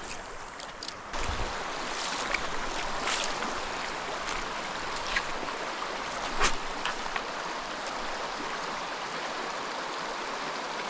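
Rainforest creek water running steadily over rocks, starting with a low thump about a second in, with a few sharp ticks over the rush.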